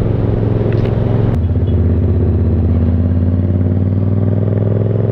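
Yamaha MT-07's parallel-twin engine running under way. Its note drops in pitch about a second and a half in, then holds steady.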